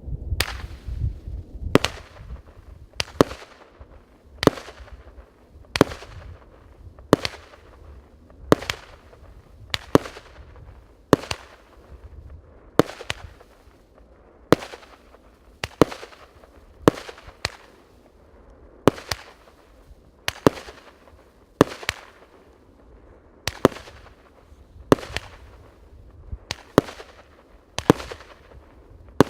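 A 49-shot, 1-inch-calibre firework cake firing, one sharp bang about every second and a half, some shots coming in quick pairs.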